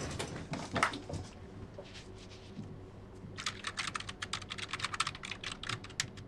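Typing on a computer keyboard: a few scattered key clicks at first, then a fast, busy run of keystrokes over the last few seconds.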